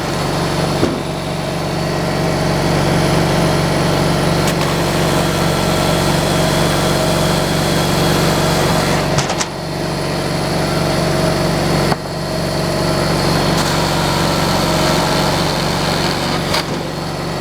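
Sawmill engine running steadily at a constant pitch, with a couple of brief dips in level.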